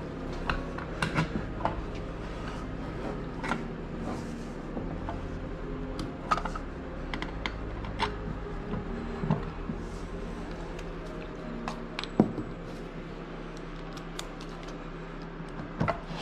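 Scattered light clicks and knocks of bolts and mounting hardware being handled and fitted, over a steady low hum.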